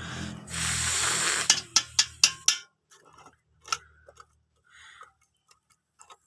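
Electric coconut grating machine running with a steady motor hum. A loud grinding noise lasts about a second as coconut is grated, then a few sharp clicks, and the motor stops about two and a half seconds in. Scattered clicks and knocks follow.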